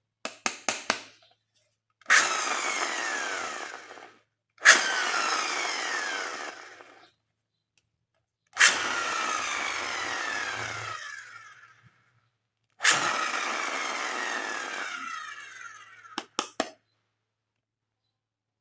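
Electronic toy gun sound effects: four blasts, each starting sharply with falling tones and fading over two to three seconds. Quick plastic clicks come at the start and near the end.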